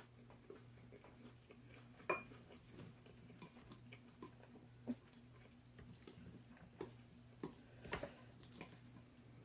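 Light, scattered clicks and clinks of an eating utensil against a bowl while noodles are eaten. One sharper clink with a brief ring comes about two seconds in, over a steady low hum.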